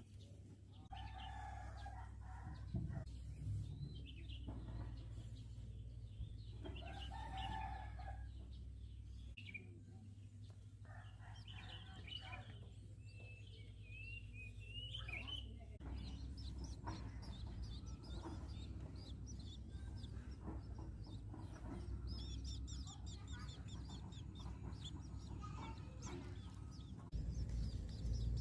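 Birds calling over a steady low rumble. The calls are scattered through the first half, and from about three-quarters of the way through there is a rapid run of high chirps.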